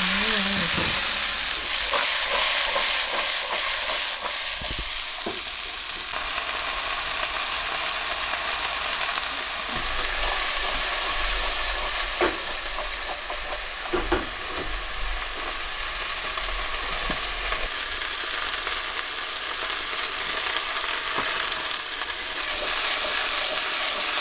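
Sliced lotus root sizzling in plenty of hot oil in a metal pot as it is stir-fried, the sizzle loudest just after the lotus root goes in and then settling to a steady hiss. A few knocks of the utensil against the pot come through.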